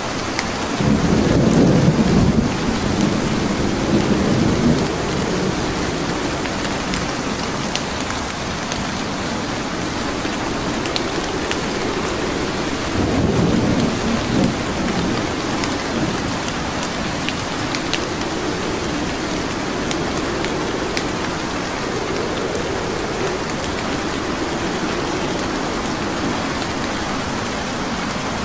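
Steady rain with scattered small crackles from a wood fire. Two low rumbles swell up, one about a second in and one about halfway through.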